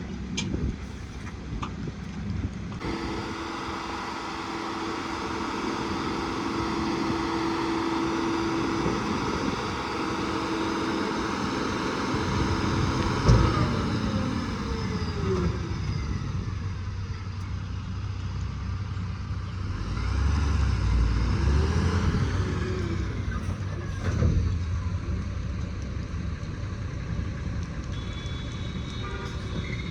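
Heavy diesel vehicle engines running, with a sharp knock about thirteen seconds in, then a deeper rumble and engine revs rising and falling.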